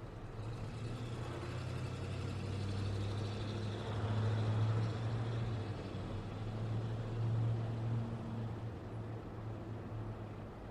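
Road traffic: motor vehicles going by, a low engine hum under a wash of tyre and road noise that swells about four seconds in and again near eight seconds before easing off.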